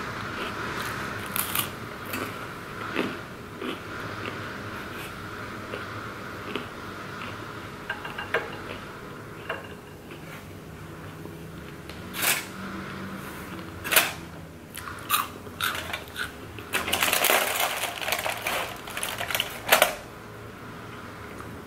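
Close-up chewing and crunching of Flamin' Hot Cheetos on pizza: scattered crisp crunches at first, growing into a dense run of crunching about three-quarters of the way through.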